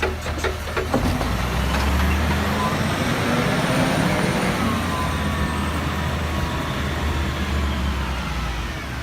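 Garbage truck engine running, growing louder about two seconds in and easing off toward the end, with a few sharp clicks in the first second.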